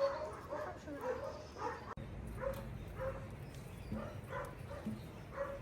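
A dog whimpering in short repeated cries, about two a second.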